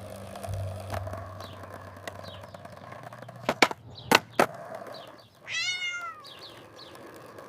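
A cat meows once, a rising-then-falling call about two thirds of the way in. Shortly before it come a few sharp clicks, the loudest sounds here.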